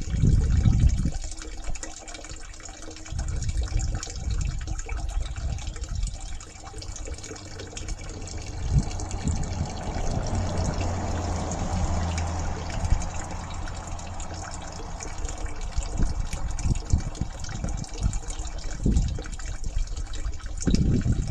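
Water running and trickling steadily, swelling a little in the middle, with irregular low rumbles underneath.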